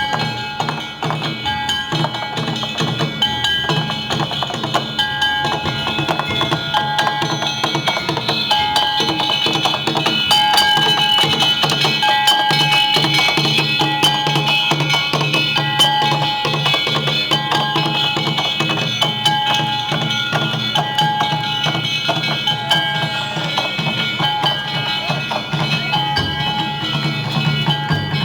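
Danjiri bayashi festival music: taiko drums with metal hand gongs (kane) struck in a steady beat, one ringing stroke about every second and a quarter over continuous clanging.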